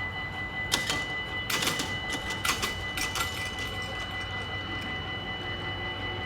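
Dutch level-crossing warning bell sounding with a steady ringing tone, with a few sharp clacks about a second in and again between two and three seconds in.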